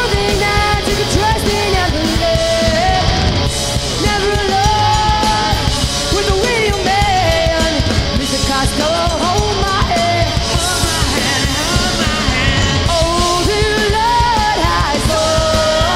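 Loud rock song, punk-like in style: a voice singing over a full band with fast, driving drums.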